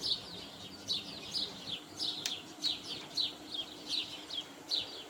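Birds chirping: a steady run of short, high, falling chirps, about two a second.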